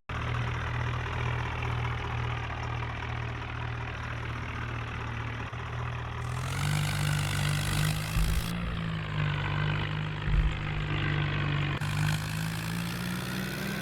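Swaraj 963 FE tractor's diesel engine running steadily. About six seconds in its speed picks up slightly and then holds, and two short low thumps come around eight and ten seconds in.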